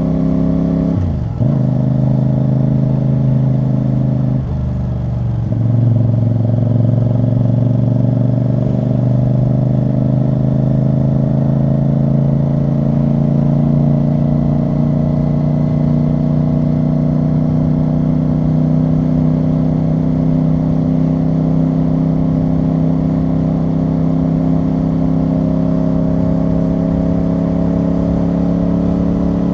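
CFMoto CL-C 450's parallel-twin engine and exhaust riding under load, heard from the rider's seat. Two quick gear changes about a second in and about four to five seconds in, then a steady cruise with the engine note slowly rising.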